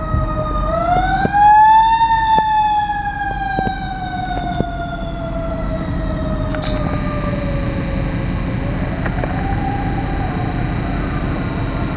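Fire engine siren wailing over the truck's engine rumble: the pitch climbs, then slides slowly down for several seconds before climbing again near the end. A little past halfway a steady high hiss joins it.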